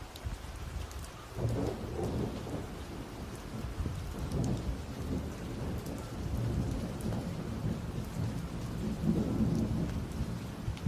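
Thunder rumbling long and low over steady rain; the rumble comes in about a second and a half in and swells again near the end.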